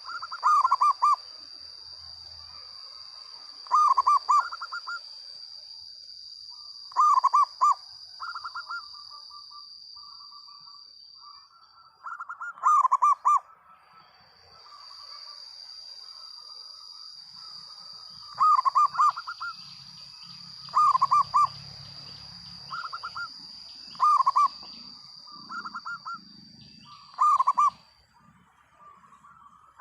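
Local zebra dove (perkutut) singing its cooing song: short phrases of a few quick, loud notes followed by softer trailing notes, repeated about every three seconds. A steady high-pitched whine runs behind it and breaks off briefly about twelve seconds in.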